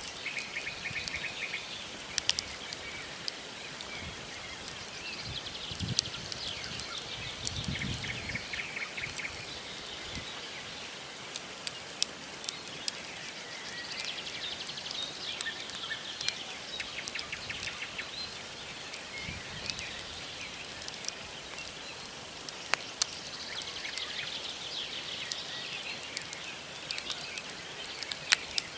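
Wood campfire crackling, with frequent sharp pops and snaps from the burning logs. Small birds call several times in bursts of rapid trilling.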